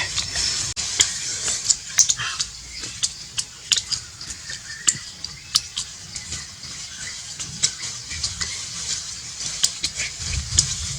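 Pig intestine cooking over heat, sizzling with a steady hiss and frequent irregular sharp crackles.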